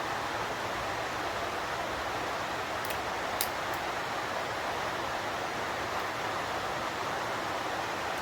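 A steady, even hiss or rushing noise, with two faint clicks about three seconds in.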